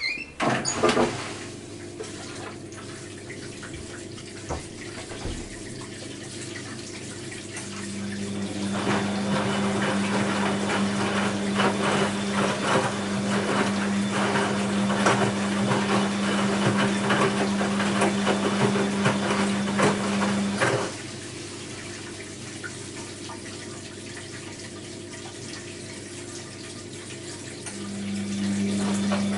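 Bosch WAB28220 washing machine moving water: a steady hum with rushing, splashing water starts about 8 seconds in, cuts off suddenly about 21 seconds in, and starts again near the end. A quieter background hum runs in between.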